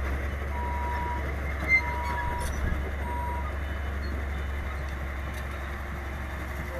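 Dump truck running with a steady low engine drone, its reversing alarm beeping three times about a second and a quarter apart before falling silent around the middle.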